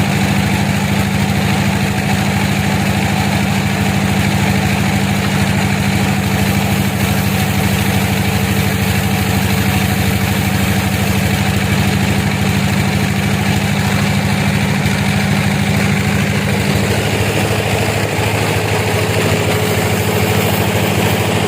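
A sawmill's engine running steadily at an even speed, with a deep, constant hum. A faint higher tone joins in near the end.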